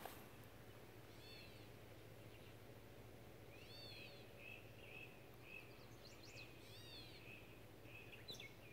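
Faint birdsong: a few arched chirps and a run of short repeated notes, over a steady low hum.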